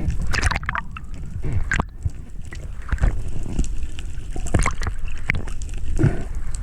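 Sea water sloshing and gurgling around the camera, with irregular knocks and clicks and a low rumble.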